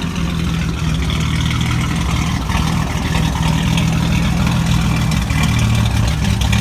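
Engine of a vintage Corbitt truck running steadily at idle, close by. It sounds healthy: the truck seems to run pretty good.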